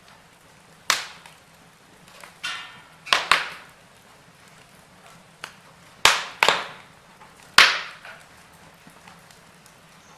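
Logs burning in a fireplace, crackling with about seven sharp pops spread over a faint steady hiss. The loudest pop comes near the end.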